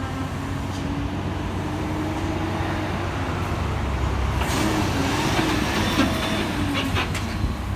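Heavy trucks' diesel engines working up a steep hill, a steady low rumble with a held engine tone, and a louder rush of noise about halfway through.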